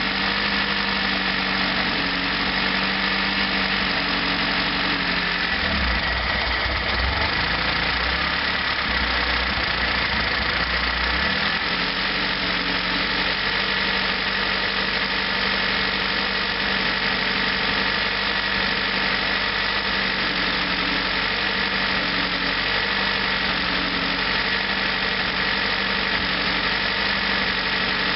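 Lada Niva engine idling steadily, with no revving. A deeper low rumble joins in from about six to eleven seconds in.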